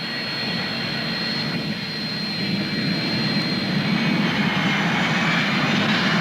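Jet airliner engines running: a steady high whine over a rushing roar, slowly growing louder.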